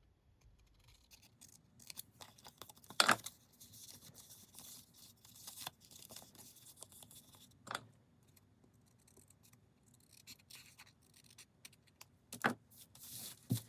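Scissors trimming paper: quiet, scattered snips and soft paper rustling, with a few sharper clicks.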